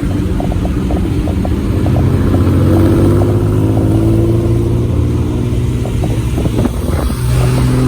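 Car engine running under way, its pitch rising as it accelerates a couple of seconds in, with a brief dip about seven seconds in before it picks up again, and faint clicking along with it.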